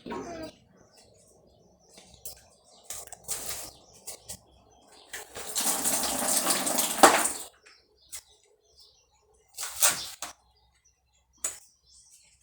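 Water running for about two seconds near the middle, amid scattered knocks and clatters of items being handled.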